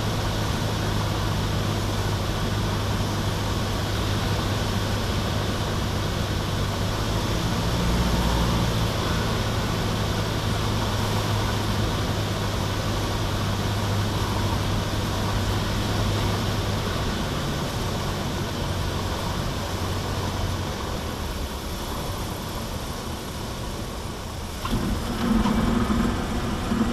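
Cessna 152's four-cylinder Lycoming piston engine and propeller running steadily, heard from inside the cockpit. About two-thirds of the way through the drone drops lower and quieter, as if the throttle is being pulled back.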